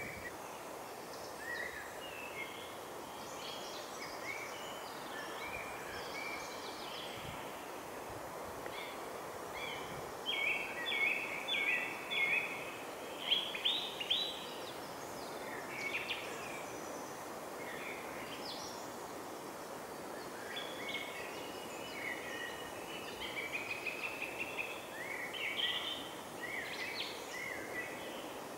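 Songbirds calling and singing, short chirps and trills that are busiest in the middle and again toward the end, over a steady background hiss.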